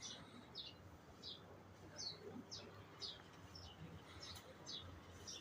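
A bird chirping faintly and repeatedly, short high notes about twice a second, each dropping slightly in pitch.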